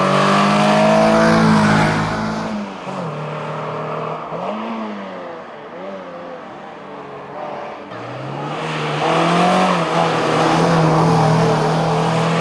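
Renault Clio 16S hillclimb car's four-cylinder engine at full throttle, lifting off about two seconds in, with a couple of quick rises in revs while it runs quieter, then pulling hard again from about eight seconds in and loudest near the end.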